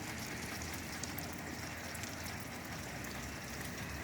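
Steady rain falling: an even hiss with fine, scattered patter of drops.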